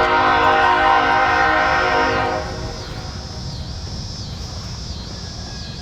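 CSX freight locomotive horn sounding a chord of several tones, cutting off about two and a half seconds in, then the train rumbling steadily past with a faint high pulsing tone above it.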